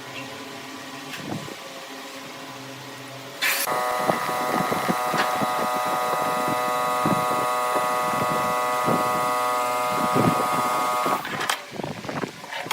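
Woodworking machine, most likely a wood lathe with a tool cutting the spinning wood: a loud steady whine with rough scraping through it, starting suddenly about three and a half seconds in and stopping suddenly near eleven seconds. Before that, a quieter steady machine hum.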